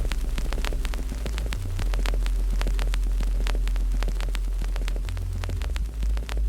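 Wood fire crackling with many sharp pops and snaps, over a loud steady low hum that begins to pulse near the end.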